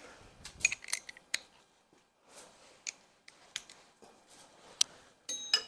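Scattered, irregular light clicks and metallic clinks of hand tools and small bolts being handled during an engine teardown, with a brief ringing clink of metal on metal near the end.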